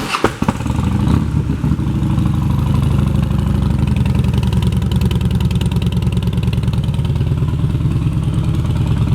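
2011 Harley-Davidson Dyna Wide Glide's Twin Cam V-twin with Vance & Hines exhaust pipes, starting right at the beginning and then idling steadily with an even, rhythmic beat.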